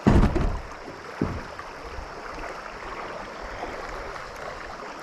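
Steady rush of river water around a kayak, with a sudden loud low knock right at the start and a softer one about a second later.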